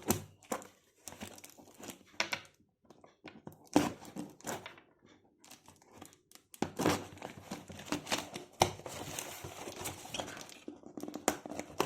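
Parcel packaging being handled and opened: irregular crinkling and rustling with sharp clicks and some tearing, in bursts with a couple of short pauses.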